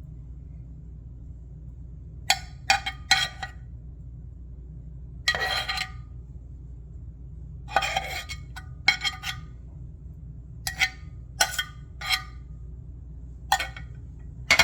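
A kitchen utensil clinking against tableware in about a dozen short, sharp knocks, some with a brief ring and one drawn out like a scrape, over a steady low hum.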